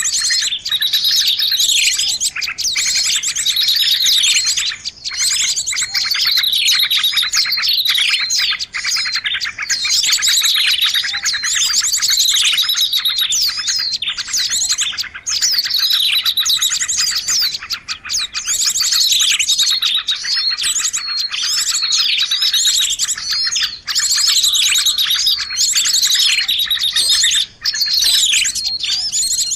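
Dense, noisy chorus of many small birds chirping and twittering over one another, with quick falling notes repeating throughout. It is a bird-lure (pikat) recording, made busy on purpose to draw in birds of many kinds.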